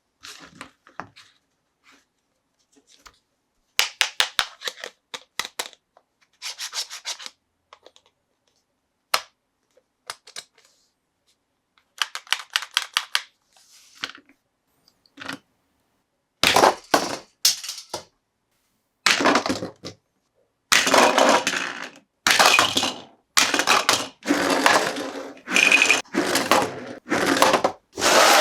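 Toy packaging being handled and opened. Scattered runs of quick clicks come first, then from about halfway a series of louder tearing, rustling bursts.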